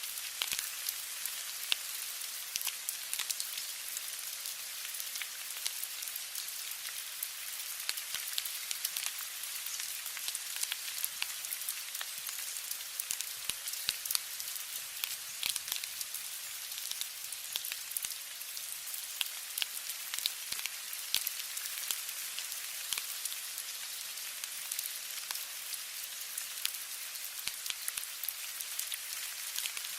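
Steady rain falling, an even hiss with many small, sharp drop patters scattered through it.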